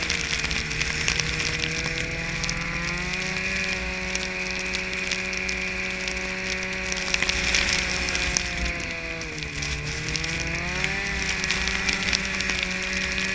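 Snowmobile engine running under way. Its pitch climbs about three seconds in, dips and climbs back near the end, over a fast rattling clatter.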